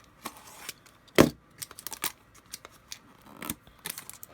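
Trading cards and their packaging being handled on a table: scattered clicks and light rustling, with one sharp knock about a second in.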